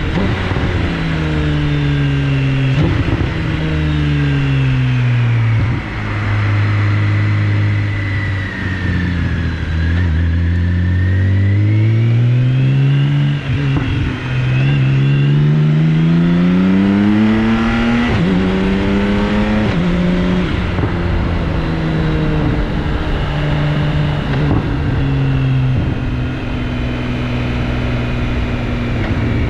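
BMW K1600GTL inline-six engine running through a HATTECH aftermarket muffler while riding. It slows for the first ten seconds, with two short jumps in revs as it shifts down, then accelerates hard with two quick upshifts in the middle, and settles into a steady cruise.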